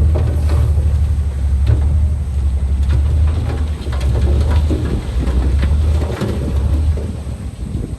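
Heavy diesel engine of a crawler bulldozer running with a deep, steady rumble, mixed with scattered clanks and crackles from the tracks and the material being pushed. The rumble falls away near the end.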